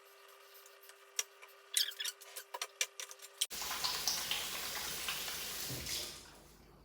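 Light clicks and knocks of kitchen utensils handling, then a kitchen tap running for a couple of seconds, starting abruptly past the middle and fading out near the end.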